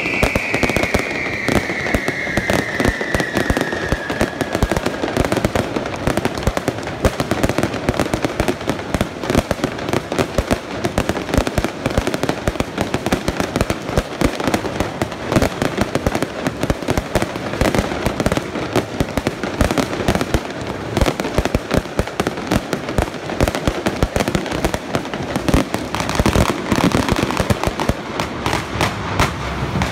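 Fireworks display with rockets, aerial bursts and fountains going off together in a rapid, unbroken run of bangs and crackling. A single whistle falls in pitch over the first few seconds.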